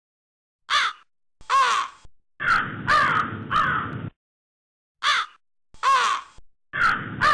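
Crow cawing: two single harsh caws, then three in quick succession, and the same pattern starting again about five seconds in.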